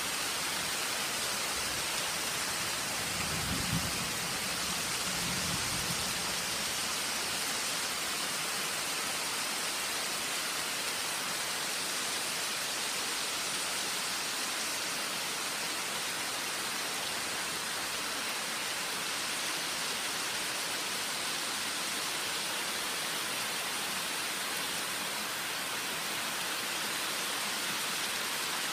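Heavy tropical rain falling steadily on jungle foliage, a dense, even hiss. A brief low rumble comes about three to six seconds in.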